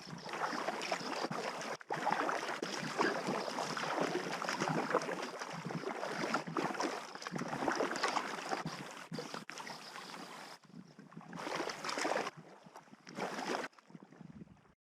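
A packraft being paddled down a river in the rain: water splashing and gurgling around the boat, with rain falling, in a few short clips cut together. It cuts off to silence just before the end.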